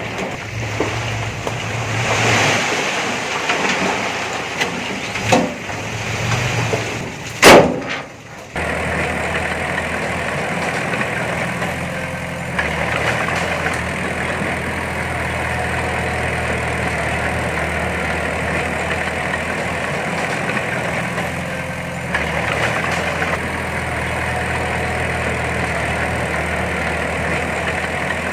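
Diesel engine of heavy earthmoving machinery running, with a single sharp, loud bang about seven seconds in. The engine then settles into a steady, even running sound.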